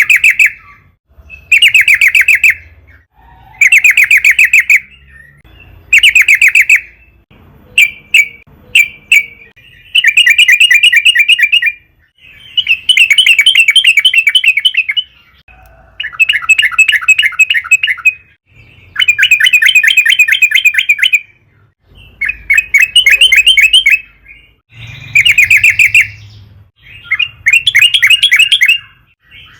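Yellow-vented bulbul (trucukan) singing: loud, rapid bubbling chattering phrases, each one to two and a half seconds long, repeated over and over with short pauses between.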